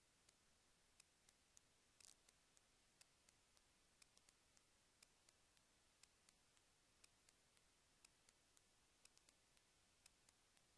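Near silence with faint sharp ticks, the strongest coming about once a second with softer ones in between.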